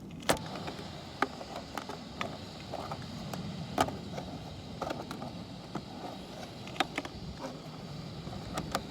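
Sharp clicks and knocks at irregular intervals as a clogged rooftop dryer vent cover is handled and worked loose, over a steady low rumble.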